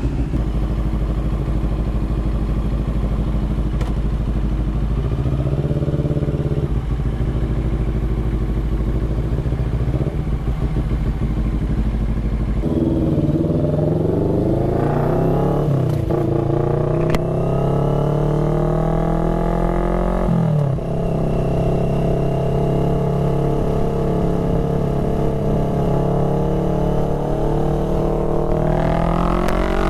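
CFMoto 400NK's parallel-twin engine through an aftermarket SC Project replica exhaust, running under way: steady for about the first twelve seconds, then rising in pitch as it accelerates. The pitch drops suddenly about twenty seconds in and climbs again near the end.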